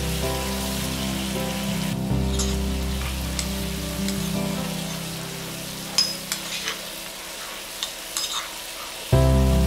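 Background music over chili paste sizzling as it is stirred in an oiled frying pan. About two seconds in this gives way to a few sharp knocks of a pestle in a stone mortar, pounding shallots and garlic, near the end.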